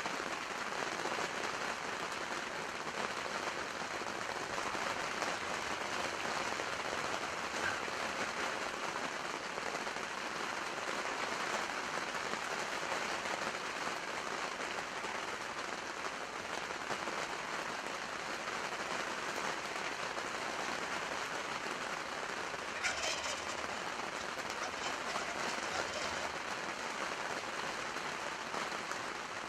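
Steady rain falling, an even hiss. Late on, a wild turkey gobbles once, briefly.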